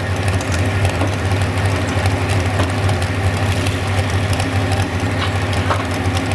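Modified 4x4 pulling truck's engine running steadily at idle with an even low note.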